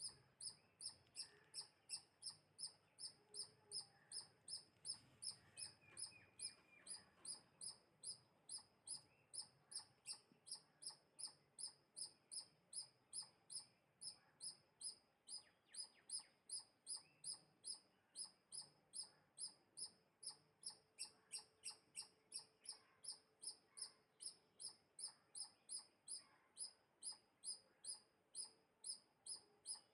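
Faint high bird chirp repeated very evenly, about two and a half times a second, with a few soft clicks in the middle.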